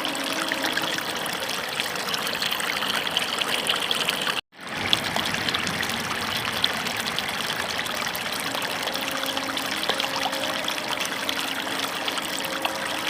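Water running and splashing steadily over plastic toy vehicles being washed. It cuts off abruptly about four and a half seconds in and resumes half a second later.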